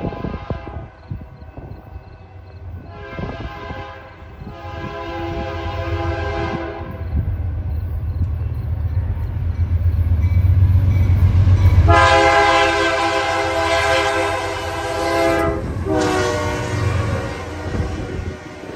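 A diesel freight locomotive approaches and passes, sounding its multi-tone air horn in four blasts: a short and a longer one a few seconds in, then a long blast about twelve seconds in and another soon after. Under the horn, a low engine rumble builds to its loudest as the locomotive goes by, and tank cars then roll past near the end.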